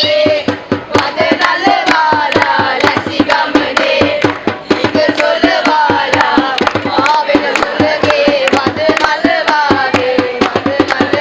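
A group of voices singing a song over a fast, steady drum beat.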